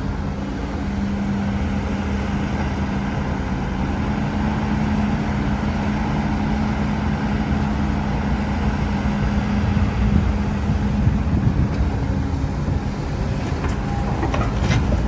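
Diesel engine of heavy earthmoving machinery running steadily with a low drone. A few sharp knocks sound near the end.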